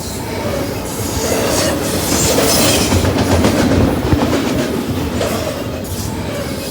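Freight train passing close by, its wheels clattering steadily over the rail joints, growing louder for a couple of seconds in the middle.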